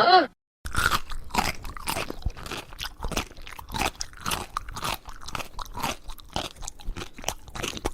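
A pet chewing something crunchy, with irregular crunches several times a second that start after a brief silence.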